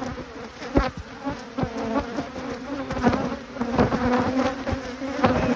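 Honeybees buzzing around an open hive in a steady hum, with a few short knocks scattered through it.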